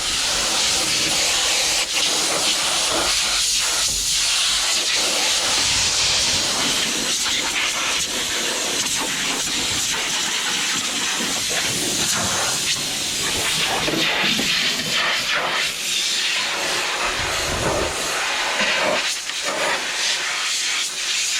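Compressed air hissing from an air hose, blowing dust and chaff out of a combine harvester before work. The hiss starts abruptly and runs steadily, wavering a little as the nozzle is moved about.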